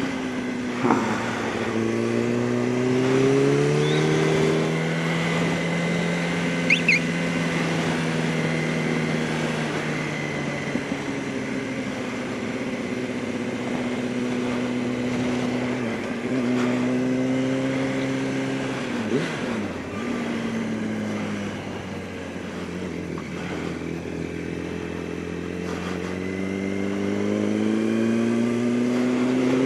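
Motorcycle engine under way, its pitch rising as it pulls up through the revs, holding steady while cruising, then easing off and climbing again a few times, with the strongest pull near the end.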